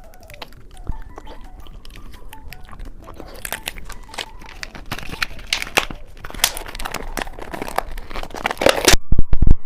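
Close-miked crunching and crackling of candy being bitten and chewed. It starts as scattered clicks, grows dense and louder about three seconds in, and has its loudest crunches near the end.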